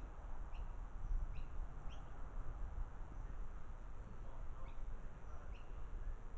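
A small bird chirping in short, high notes, one every half second to a second, with a pause of a couple of seconds in the middle. Under it runs a steady low rumble.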